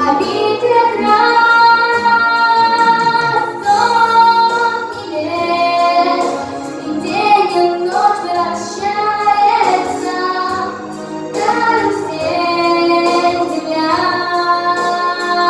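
A song: a high voice, a child's or a woman's, singing long held notes over an instrumental accompaniment.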